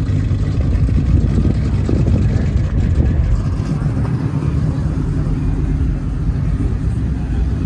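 Loud car engine idling steadily with a deep exhaust rumble, not being revved.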